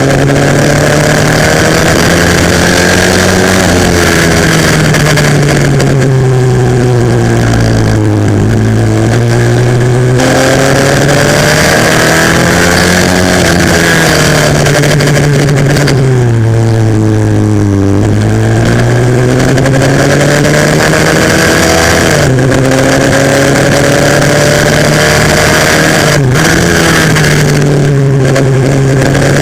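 Pit bike's single-cylinder four-stroke engine at race pace, heard onboard, revving up and falling away again and again through gear changes and corners.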